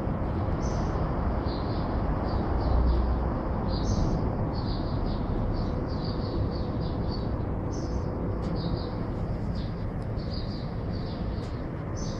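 Small birds chirping in repeated short, high notes in irregular clusters, over a steady low background rumble.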